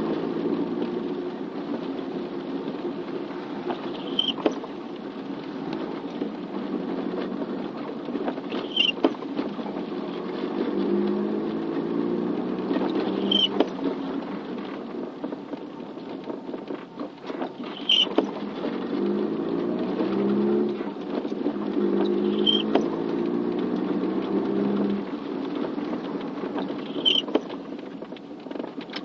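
Road vehicle running in light rain, its engine hum shifting in steps, with a short high squeak-click repeating about every four and a half seconds.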